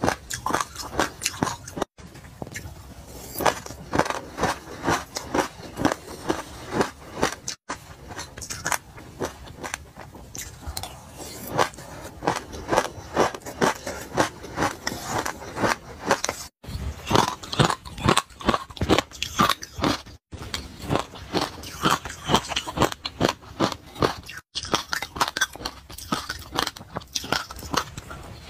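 Close-up chewing of a mouthful of sesame seeds: dense, rapid crunching and crackling, broken by a few brief dropouts.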